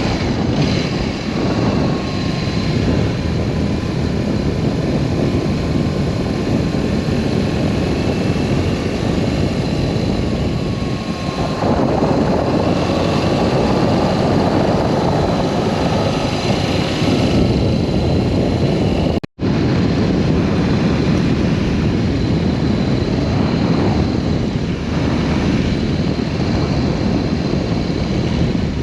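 BMW R1200S boxer-twin motorcycle on the move: the engine running under a steady rush of wind over the microphone.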